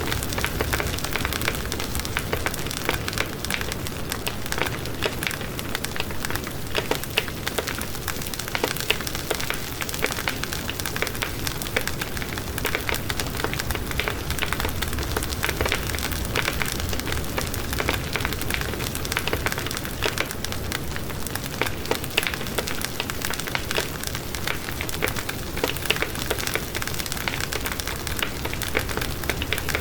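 Wood fire burning with dense, steady crackling and frequent sharp pops and snaps.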